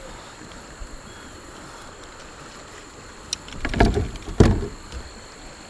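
A kayak on a fast creek riffle, water rushing steadily, with a short cluster of knocks and low thumps from the boat about three and a half seconds in.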